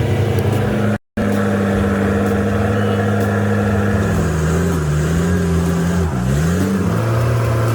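Heavy truck engine running under load, with a brief dropout about a second in. Partway through, the engine speed dips and climbs again a couple of times, then settles.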